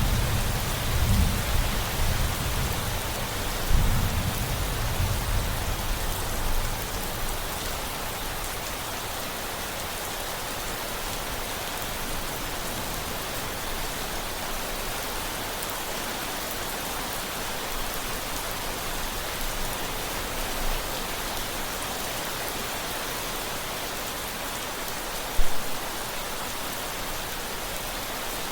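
Steady rain falling. A rumble of thunder rolls through the first several seconds and dies away, and there is one brief low thump near the end.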